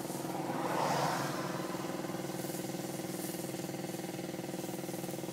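An engine running steadily at idle, with a brief swell of noise about a second in.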